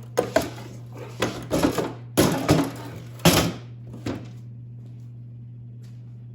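Metal clanks and knocks as the chain case housing of a 1964 John Deere 300 snowmobile is worked off its drive shaft: a burst of sharp strikes and clatter over the first four seconds, then stillness. A steady low hum runs underneath.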